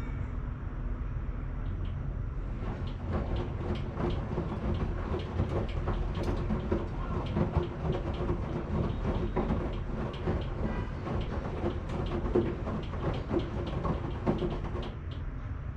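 Washing machine running with a steady low hum; from a couple of seconds in until near the end the turning drum adds a dense, irregular rattle of clicks and knocks.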